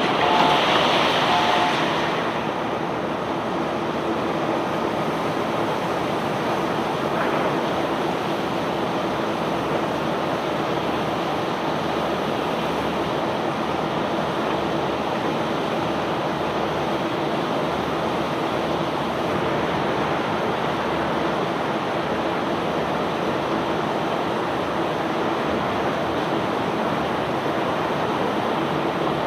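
Steady rushing noise of a self-unloading barge discharging bulk stone, with a faint constant machine hum under it. Two short beeps and a brief louder hiss come in the first two seconds.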